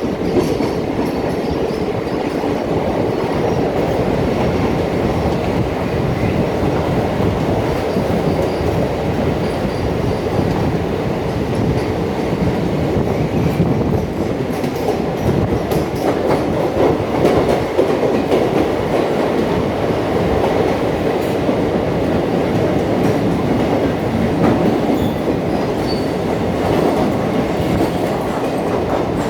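Kanchanjangha Express passenger train running along the track: a steady, loud rumble with scattered clicks of the wheels over the rails.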